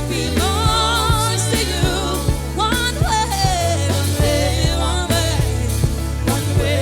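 Gospel worship song performed by a band: a steady bass line and regular drum beats under a voice singing wavering melodic runs.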